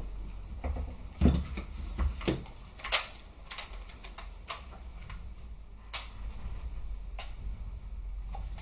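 Scattered sharp plastic-and-metal clicks from handling a reassembled SRC G36 airsoft rifle, about seven spaced irregularly a second or so apart.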